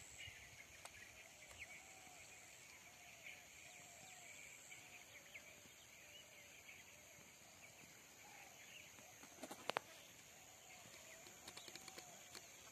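Faint outdoor ambience of distant birds calling, with short arching notes repeating about twice a second and higher chirps over them. A quick cluster of sharp clicks comes about ten seconds in, and a few lighter ones near the end.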